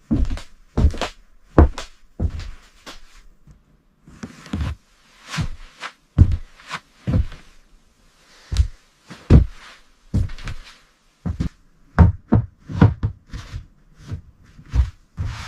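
Irregular knocks and thuds of building work, about one or two a second, with short bursts of scraping or rustling between some of them.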